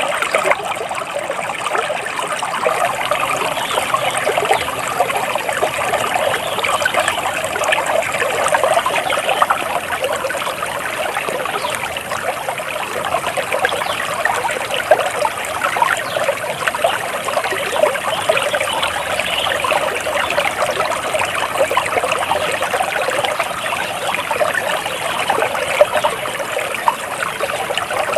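Water flowing and trickling steadily over stones in a shallow stream, a continuous babbling without breaks.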